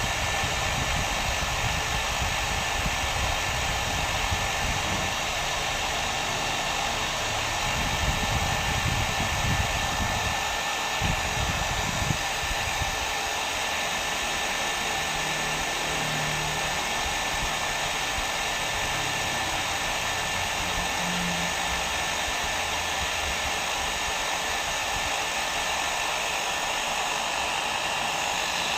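Hair dryer running steadily: an even rushing blow with a faint steady whine over it, and some uneven low rumble partway through.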